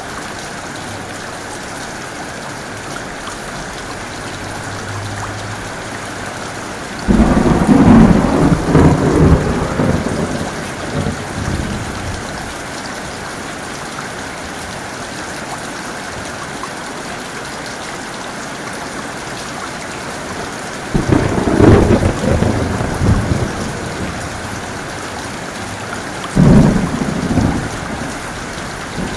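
Heavy rain falling steadily, with three sudden thunderclaps: one about a quarter of the way in that rolls on for several seconds, and two more close together near the end.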